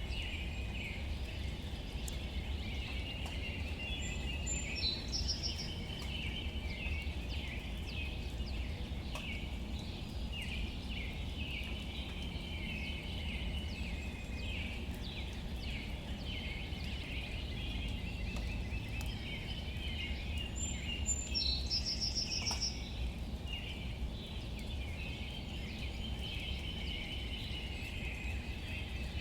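Outdoor nature ambience: a steady chorus of high chirping calls over a low rumble, with light scattered patter of drops on leaves. Twice, about five seconds in and again around twenty-one seconds, a bird gives a short high trill.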